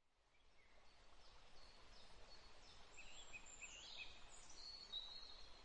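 Faint outdoor nature ambience fading in, with birds calling: a few short chirps, then higher whistled calls near the end.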